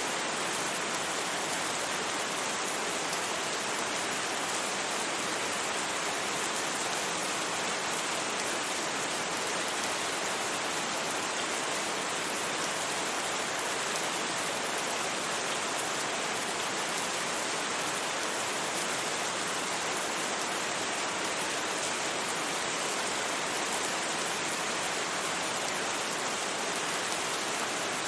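Steady rain falling, an even hiss of drops with no thunder and no single drops standing out.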